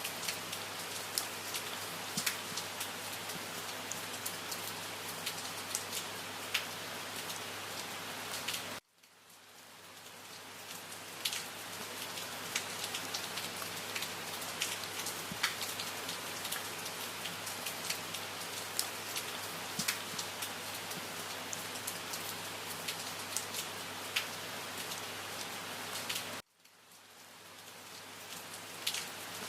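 Steady rain falling on a surface, with many individual drops ticking through the hiss. Twice, about nine seconds in and again near the end, the rain cuts out abruptly and fades back in over a couple of seconds, where the recording loops.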